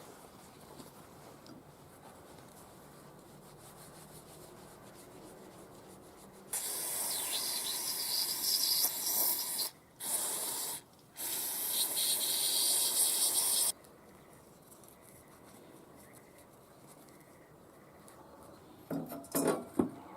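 Pressurised spray hissing hard in three long bursts, about seven seconds in all, with two brief breaks. Light handling rustle comes before it, and a few quick knocks come near the end.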